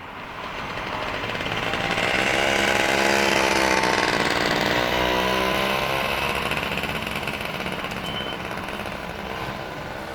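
Green Line subway train running at the platform, its motor whine sliding down in pitch as it slows, growing louder for the first few seconds and then slowly fading.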